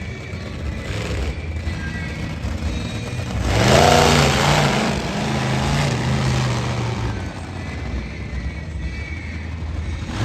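Monster truck engine revving up hard about three and a half seconds in, holding a high steady pitch for a few seconds, then easing back to a rumble.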